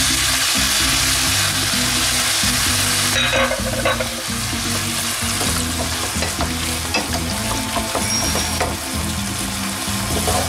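Shredded chicken and spring onions sizzling in a hot frying pan as cream is poured in. The hiss is loud for the first three seconds, then drops, and a wooden spoon scrapes and stirs the cream through.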